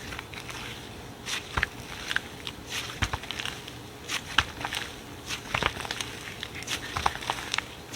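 Slime being squeezed and pressed by hand, giving irregular crackling clicks and small pops, several a second.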